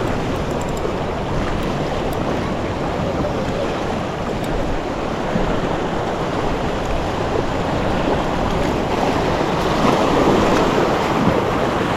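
Steady rushing of wind and lapping sea water around a fishing kayak, swelling a little about ten seconds in.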